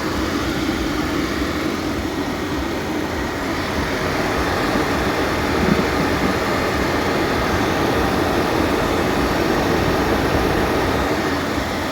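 Kia Picanto's engine running steadily at an even speed.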